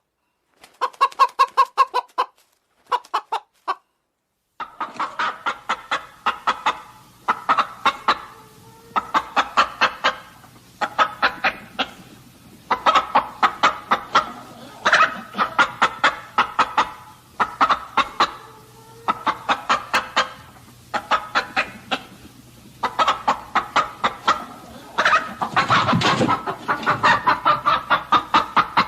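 Chickens clucking in quick, repeated runs of short notes. There is a brief silence about four seconds in, and a louder muffled bump a few seconds before the end.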